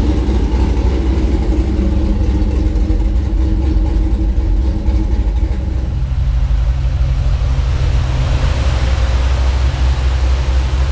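Cammed Chevrolet Camaro SS's LS3 V8 running steadily and loud through its exhaust, with no revving. The tone of the exhaust changes about six seconds in.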